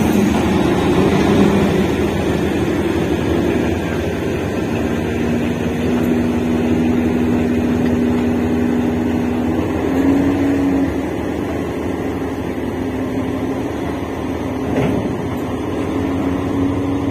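Freight train of tank wagons rolling past close by: a steady rumble and rattle of wheels on the rails, with a humming tone that shifts in pitch a few times and a single knock near the end.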